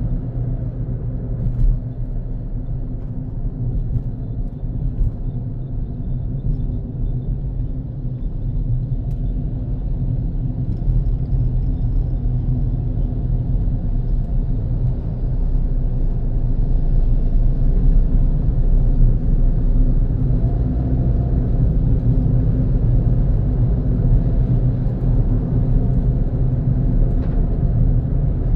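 Car driving along a road: a steady low rumble of engine and tyre noise, a little louder in the second half.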